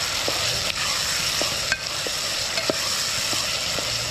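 Chopped onions sizzling in coconut oil in a metal pot, stirred with a wooden spoon: a steady frying hiss with light, irregular knocks of the spoon against the pot.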